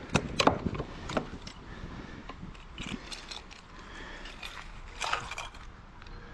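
Scattered clicks and knocks from a rod, reel and freshly caught largemouth bass being handled aboard a kayak, a few close together near the start and more around the middle and near the end.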